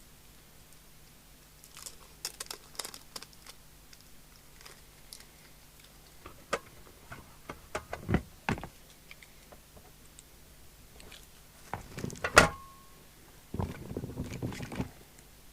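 Clicks, taps and rattles of leads and small parts being handled on a workbench, with one sharp knock about twelve seconds in that rings briefly.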